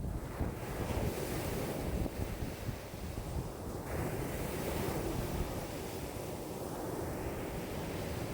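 Choppy lake waves washing and breaking against the shore in a strong wind, with wind gusting across the microphone. The sound is a continuous rushing that swells and eases every second or two.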